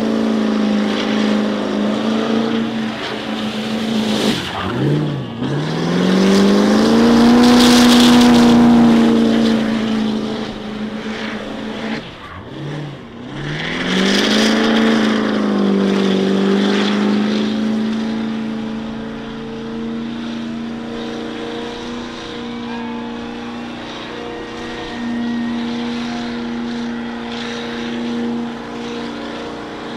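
Car engine held at high revs through a burnout. Its pitch drops sharply twice and climbs back, with loud surges of hissing noise soon after each dip, then settles into a steady high drone for the second half.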